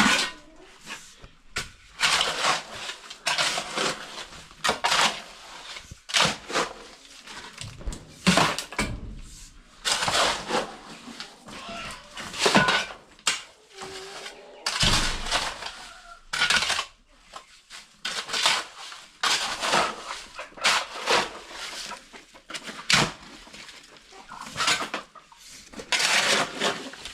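Irregular scraping and clattering strokes of a hard tool or utensils against a hard surface, repeated every half second to a second.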